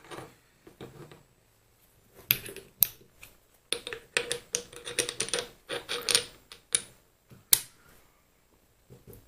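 Small steel parts of a mini lathe's apron, the half nuts among them, clicking and clinking as they are handled and fitted together: a run of sharp clicks in quick clusters, with one louder click near the end.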